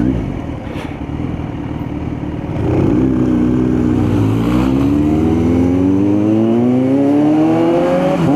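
Kawasaki Z900 inline-four engine pulling away and accelerating. The revs rise, drop once about four seconds in at an upshift, then climb steadily again, with wind noise on the helmet mic.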